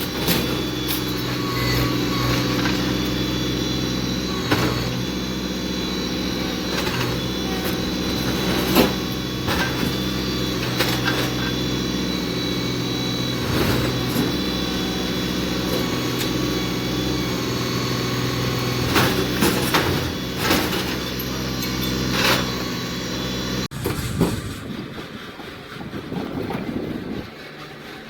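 New Holland Boomer 24 compact tractor's diesel engine running steadily under work, with repeated knocks and clangs over it. About 24 seconds in the engine sound stops abruptly, leaving quieter scattered knocks.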